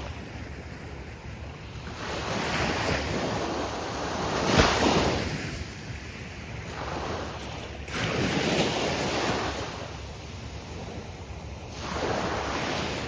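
Gulf of Mexico surf breaking on a sandy beach: waves wash in and ebb about every three to four seconds, the loudest about four and a half seconds in.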